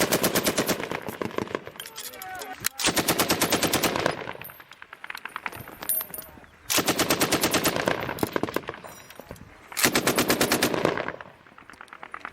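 Automatic machine-gun fire in four long, rapid bursts with short pauses between them, each burst trailing off in echo.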